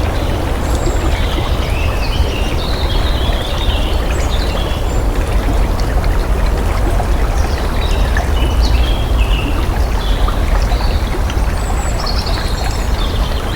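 Water flowing steadily, with small birds chirping high above it in two spells.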